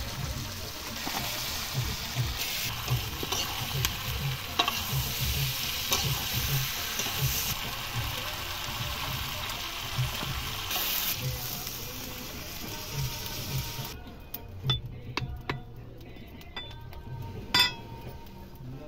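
Potatoes and tripe sizzling as they fry in oil in an iron karahi, with a metal spatula stirring and scraping against the pan. About fourteen seconds in, the sizzling stops suddenly, leaving only a few clinks and knocks of the spatula on the pan.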